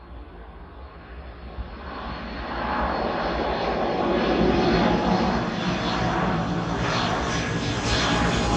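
Passenger airliner's engines growing louder as it approaches, building over the first three seconds and then holding loud, with a thin steady whine over the rushing noise.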